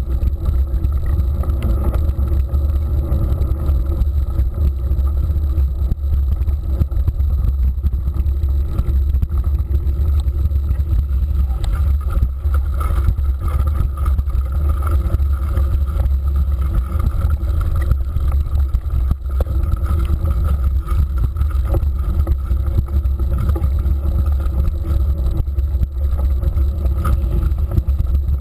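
Steady rumble of wind and riding noise on the microphone of a camera carried on a moving mountain bike, unbroken throughout.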